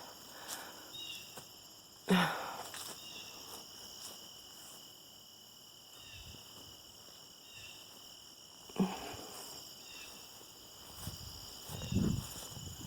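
Steady outdoor chorus of crickets and other insects, a constant high trilling. A couple of short knocks cut in, and low crunching footsteps come near the end.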